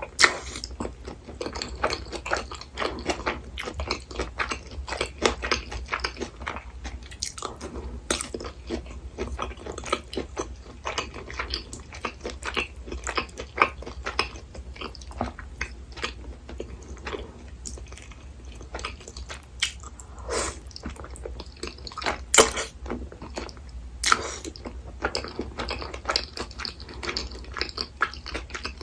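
Close-miked eating sounds from a meal of cream udon and fried-tofu sushi: steady chewing and biting, with many small wet clicks and smacks coming irregularly several times a second.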